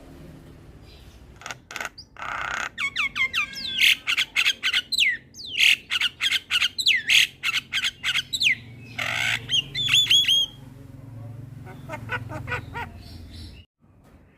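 Javan myna singing: a rapid jumble of sharp clicks, quick whistled notes sliding up and down, and a few harsh squawks, breaking off briefly near the end.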